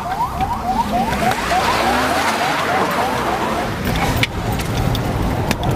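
Rapid train of short rising electronic chirps, about four or five a second, over steady road and traffic noise; the chirps fade out a few seconds in.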